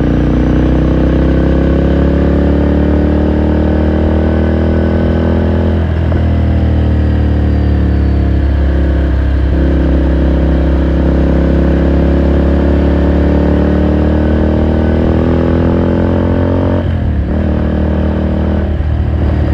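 Ducati Scrambler Sixty2's 399 cc air-cooled L-twin running under way, its note climbing slowly as the bike pulls, with brief dips in the note about six, nine, seventeen and nineteen seconds in.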